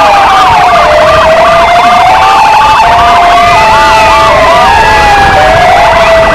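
Several electronic sirens sounding together: two Argentine Federal Police motorcycle sirens and two Kingvox ERP sirens. A fast yelp, slow rising and falling wails and, from about halfway, steady tones switching between pitches all overlap.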